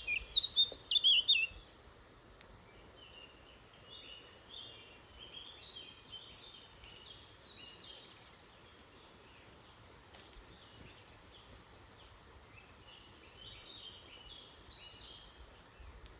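Small woodland songbirds singing and calling: a loud burst of quick, falling song notes in the first second and a half, then fainter chirping and song over a steady background hiss.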